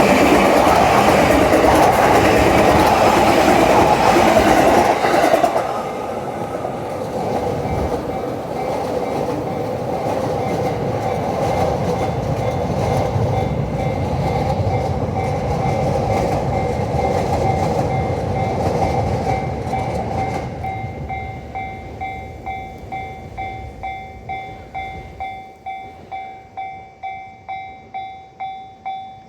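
A Yamanote Line train passes over a level crossing while the crossing's warning bell rings. The loud train noise drops off about five seconds in, and a softer rumble goes on until about twenty seconds in. After that the bell's steady repeated dings, about one and a half a second, are heard on their own.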